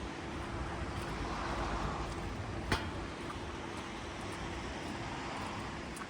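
Steady rain hiss with scattered drops ticking. The hiss swells briefly in the first two seconds, and there is one sharp click about halfway through.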